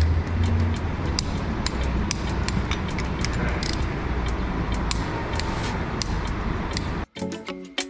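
Repair-shop noise during engine work: a steady rumble with frequent sharp metallic clicks and clinks of tools and parts. About seven seconds in it cuts off suddenly and music starts.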